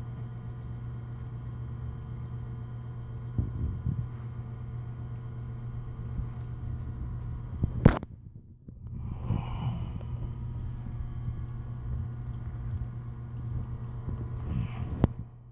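Small electric pump running steadily with a low hum while pumping out raw sewage. A sharp click comes about halfway through and another near the end.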